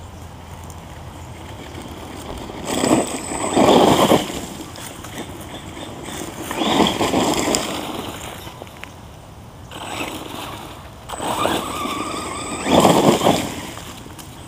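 Redcat Volcano electric RC monster truck driving in several surges of one to two seconds each, its motor and tyres rising and falling as it accelerates and backs off, with a faint high whine.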